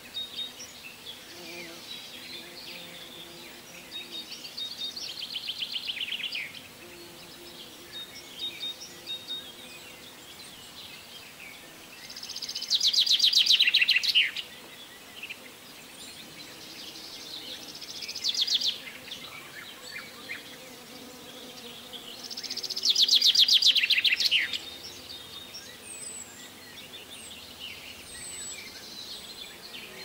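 A songbird singing loud, rapid trilled phrases, each about two seconds long, twice about ten seconds apart, with quieter trills and calls between.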